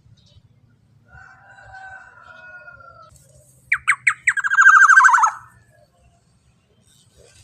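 Black-naped oriole (kepodang emas) calling: a soft, quiet warble, then about four seconds in four sharp down-slurred notes, followed at once by a loud, rapid buzzy rattle that drops in pitch at its end.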